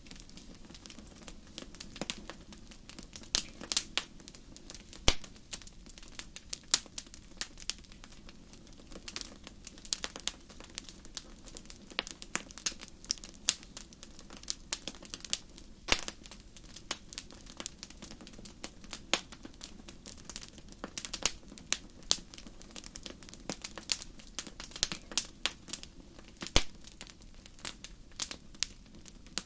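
Wood fire crackling: irregular sharp pops and snaps, a few of them loud, over a soft steady background hiss.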